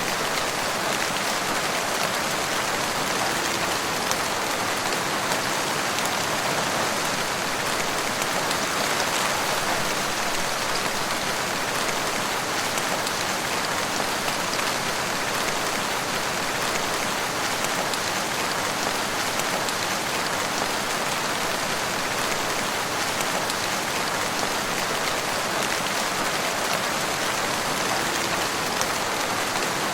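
Steady rain falling in a forest, an even hiss of drops with fine pattering, unchanging throughout.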